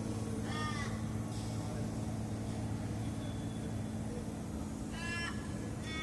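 A Sterling HX9500 truck's diesel engine running steadily, heard from inside the cab, with three short, high calls over it: one about half a second in, one about five seconds in and one at the very end.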